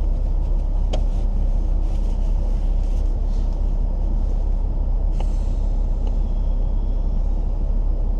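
BMW X5 3.0d's straight-six diesel engine idling while the car stands still, heard from inside the cabin as a steady low rumble, with a couple of light clicks.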